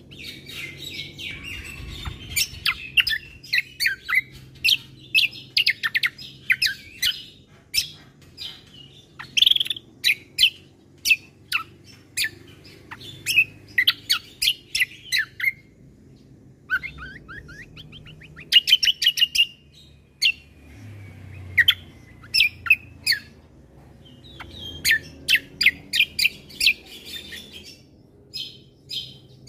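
Cucak kombo (kecial kombo) songbird singing: fast, varied runs of sharp chirps and trills in phrases broken by short pauses, over a faint low background hum.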